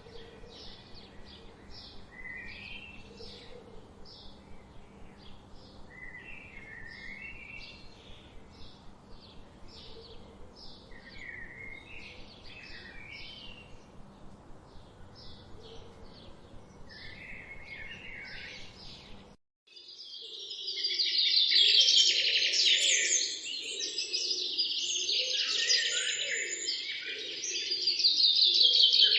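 Songbirds singing: a quick series of short, high chirps about two or three a second, mixed with warbled phrases, over a faint background hiss. About two-thirds of the way through it cuts suddenly to a louder, dense chorus of several birds calling together, with lower-pitched calls running beneath.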